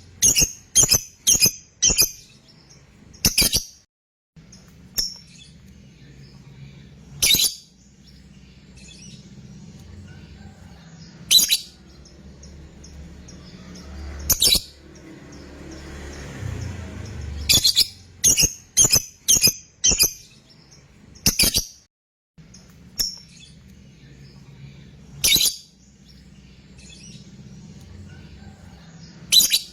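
Lovebird giving short, shrill, piercing calls, some single and spaced several seconds apart, others in quick runs of four or five.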